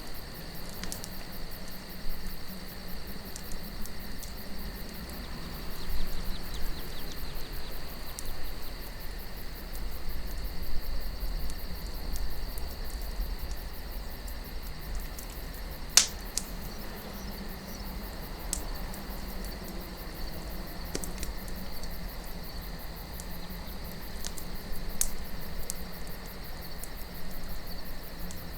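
Campfire crackling with scattered sharp pops, the loudest about sixteen seconds in, over a steady high chirring of night insects and a low wind rumble.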